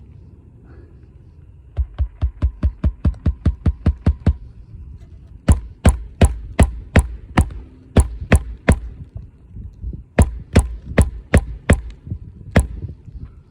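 Hand hammer driving roofing nails into a new asphalt shingle. First comes a quick run of about a dozen light taps, then two slower runs of harder blows.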